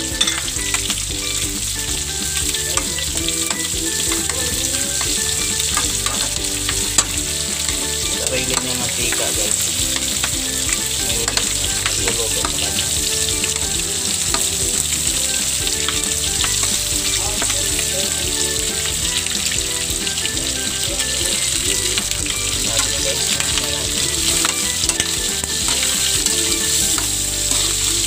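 Pork cubes and sliced onions sizzling steadily in the pork's own rendered fat in a wok, with a metal spatula stirring and scraping the pan. The sizzle is peppered with many small pops and clicks.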